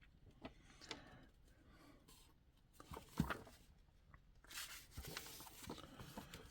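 Faint handling of magazine paper: a few small taps and clicks, then a soft rustle of a page being turned over in the last two seconds.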